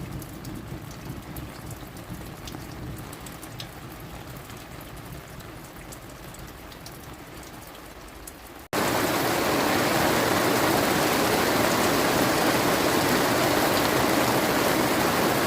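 Steady rain falling, with scattered drips ticking. About nine seconds in it cuts abruptly to a much louder, dense downpour hiss.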